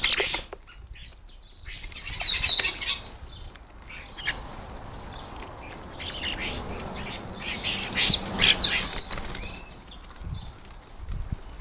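European starlings flapping their wings and giving whistling, sliding calls in three bursts: at the start, about two seconds in, and a longer one about eight seconds in.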